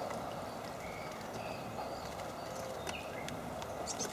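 Outdoor background hiss with a few faint, short bird chirps and a couple of light taps near the end.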